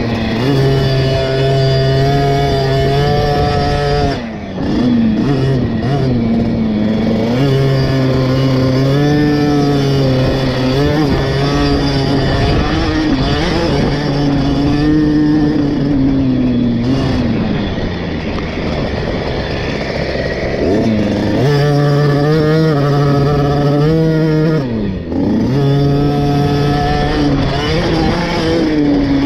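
KTM 50 SX's single-cylinder two-stroke engine being ridden hard over a motocross track: revs held high, falling away sharply as the throttle is shut about four seconds in and again near twenty-five seconds, then climbing back.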